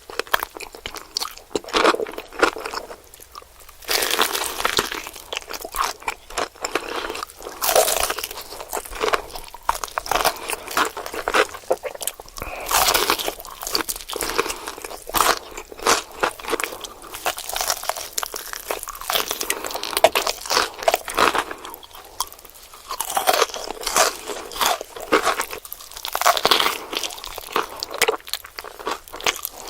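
Close-miked biting and chewing of crispy food: loud, irregular crunches in quick clusters, with a few short pauses between bites.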